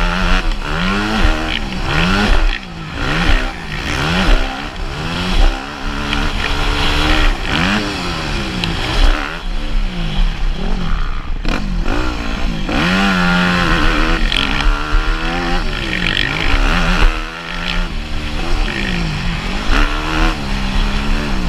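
Motocross bike engine revving hard and backing off again and again, pitch climbing and dropping every second or two as it is ridden around the track.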